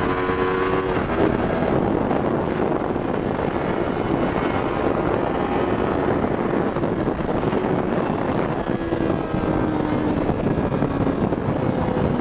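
Stock Yamaha R3's parallel-twin engine running under way, largely covered by wind rushing over the camera microphone. The engine note shifts slightly in pitch and eases down about two-thirds of the way through.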